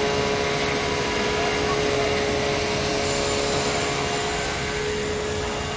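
Machinery running steadily: an even rushing drone with a constant hum, and a thin high whine joining about three seconds in.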